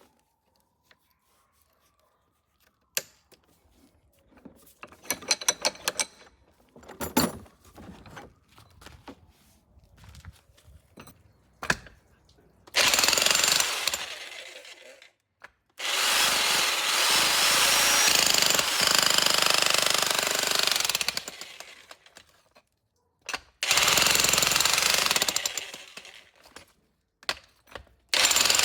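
A 1700 W electric demolition hammer with a point chisel breaking concrete in four bursts, starting about 13, 16, 24 and 28 seconds in; the second burst is the longest, about five seconds. Before the first burst there are only scattered knocks and clatter.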